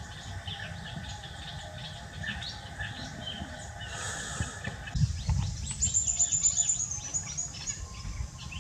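Small birds chirping and twittering in the background, with a quick run of very high, slightly falling notes about six seconds in. Low rustling and soft bumps of cloth being handled run underneath.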